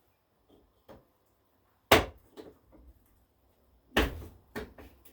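Hand tools and sockets being handled on a workbench: a few short, sharp clinks and knocks, the loudest just before two seconds in and a quick cluster near the end.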